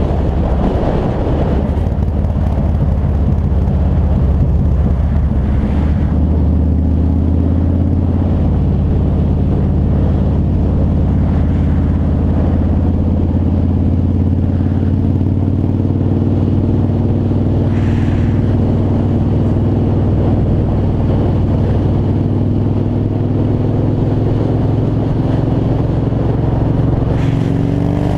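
2003 Yamaha Road Star's air-cooled V-twin engine running at a steady highway cruise, its note holding nearly level and creeping slightly higher later on, over wind and road rush.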